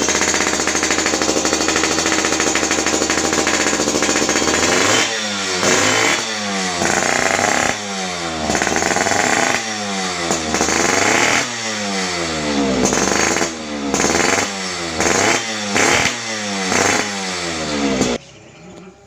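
Small engine running through a loud, open-sounding exhaust, either a VizR Chan aftermarket pipe or a gutted stock one. It holds steady at high revs for about five seconds, then is blipped over and over, each rev rising and falling away. The sound cuts off suddenly about a second before the end.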